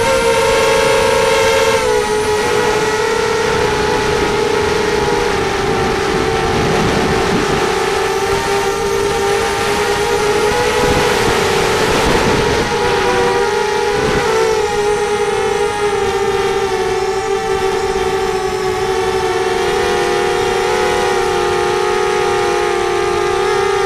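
FPV racing quadcopter's electric motors and propellers whining steadily, the pitch wavering slightly up and down.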